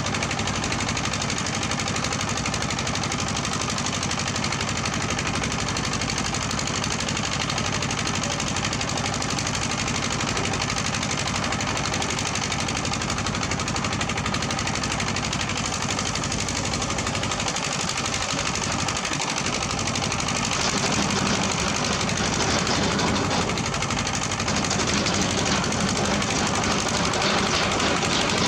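Heavy-equipment diesel engine running under load with a fast, steady clatter, growing a little louder and deeper about twenty seconds in.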